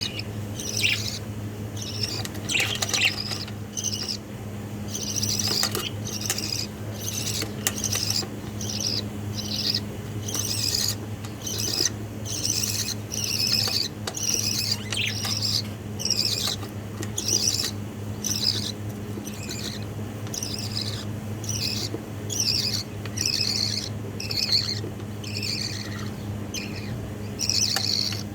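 Budgerigar chicks calling: a steady stream of short, harsh chirps, each falling in pitch, about two a second.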